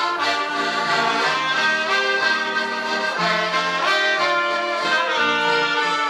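Alpine folk-pop band playing the instrumental opening of a song, a melody of held notes over a steady accompaniment, with accordion and brass sounding.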